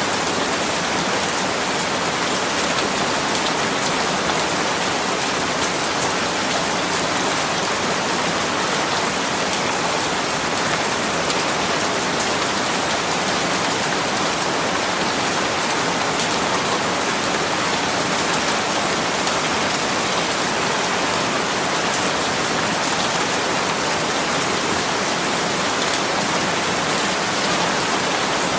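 Steady rain falling on a surface, with a dense patter of fine drop ticks and no let-up.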